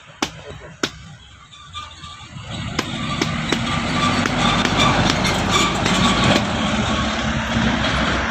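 A truck engine running, quiet at first and then growing loud about two and a half seconds in and holding steady, as a truck comes up the hill. A few sharp clicks sound in the first second.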